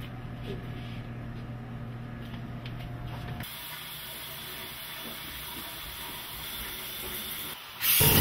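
Shower running behind a closed curtain: a steady hiss of spraying water that begins about a third of the way in, after a low steady hum. Near the end a sudden loud burst of noise cuts in.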